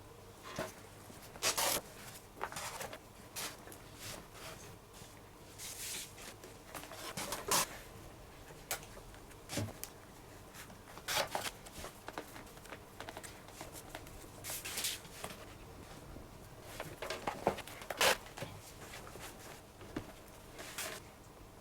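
Leather lace being worked through a baseball glove by hand: irregular rustles, scrapes and short pulls, with a few louder strokes scattered through.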